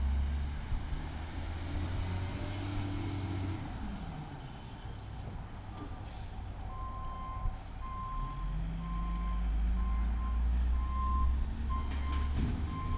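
1995 WhiteGMC garbage truck's Volvo VED7 diesel engine running, its pitch easing down about four seconds in, with a short hiss of air near the middle. About seven seconds in, its reversing alarm starts beeping, a little over once a second.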